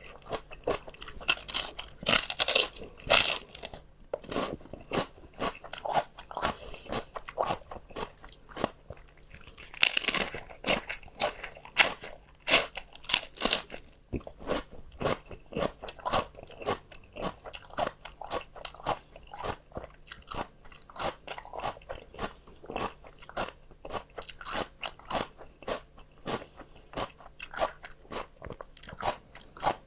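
Close-up crunching of raw vegetables: crisp bites followed by steady, rhythmic chewing, with louder bursts of crunching twice.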